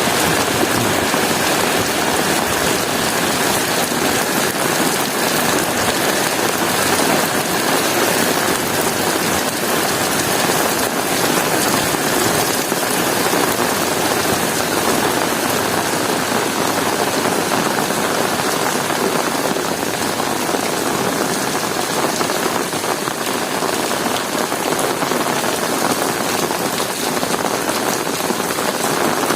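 Heavy rain pouring steadily onto hard surfaces, an even hiss with dense patter of drops.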